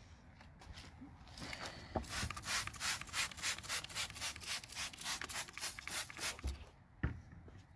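A brush scrubbing a car wheel wet with wheel cleaner: quick back-and-forth strokes, about four a second, starting about two seconds in and stopping near the end.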